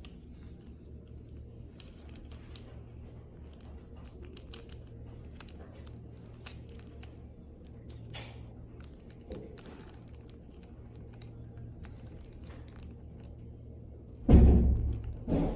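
Scattered small clicks, taps and light metallic rattles of a lovebird playing with its toys, then two loud thumps near the end.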